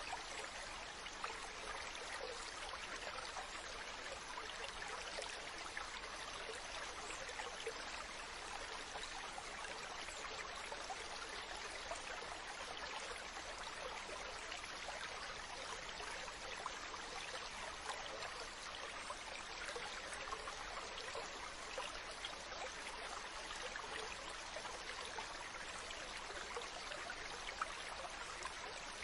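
Mountain stream running steadily, an even rush of water with fine splashing and trickling detail.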